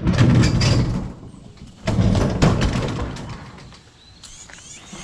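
Two loud bouts of thudding and rattling from vehicle doors being opened and shut, followed by faint bird chirps near the end.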